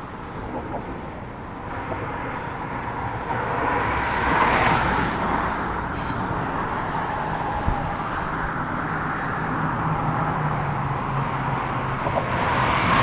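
Road traffic on a highway bridge, vehicles passing in a steady wash of noise that swells about four seconds in and again near the end.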